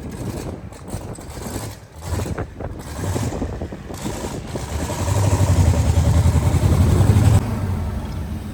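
LS-swapped twin-turbo limousine's V8 engine running under way with a low rumble. It grows louder about five seconds in, then drops off sharply near the end as the throttle is eased.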